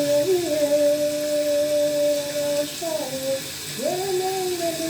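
A person's voice crying out in wordless, drawn-out tones in prayer. A long steady note lasts about three seconds and dips briefly in pitch, then a new cry rises sharply near the end and slowly falls.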